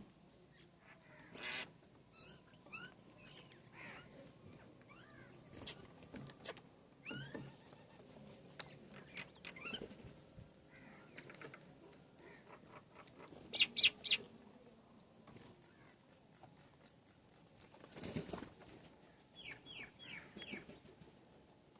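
Small birds at a feeder chirping and calling: scattered short, quick downward-sliding notes, a louder cluster of chirps about two-thirds of the way through, and a run of four quick notes near the end.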